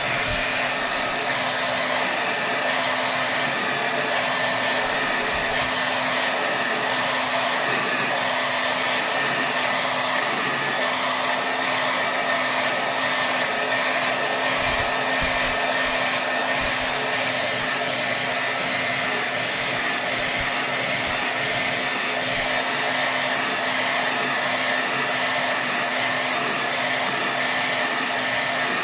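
Hair dryer running steadily on its maximum setting: a constant rush of blown air over a steady motor hum.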